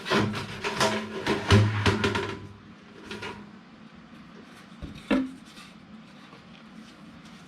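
A quick series of knocks and clatters from handling tools and duct parts during fitting work, then a quieter stretch with one more knock about five seconds in.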